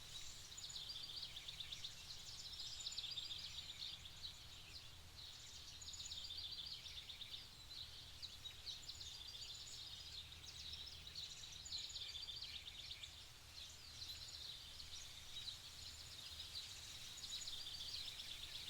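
Faint birds chirping and trilling continuously over a low, steady background hum.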